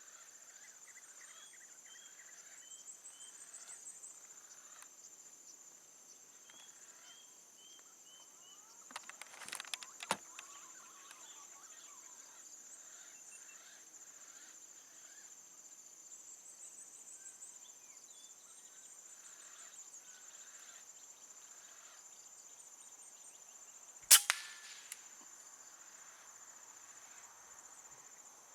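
Forest ambience with a steady high insect drone and small bird chirps, and a stretch of rustling and light knocks about a third of the way in. About three quarters of the way through comes a single sharp crack of a PCP air rifle firing a slug, with a short tail after it.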